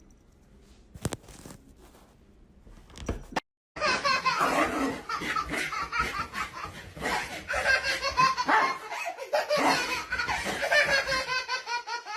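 People laughing hard, in loud belly laughs, from about four seconds in; before that only a few faint clicks.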